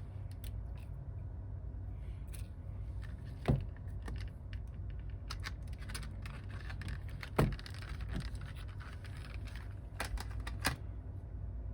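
Small clicks and taps of tools and phone parts being handled on a repair bench, with two sharper knocks, one about three and a half seconds in and one about seven and a half seconds in, over a steady low hum.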